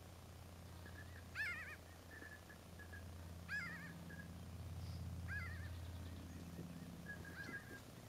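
Bird calls: three loud chirps that waver in pitch, about two seconds apart, with fainter short peeps between them and a quick warbling call near the end.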